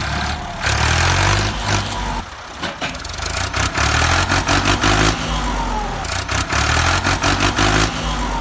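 An engine running and revving, with a rattling clatter over it; it drops in loudness for about a second a little over two seconds in, then picks up again.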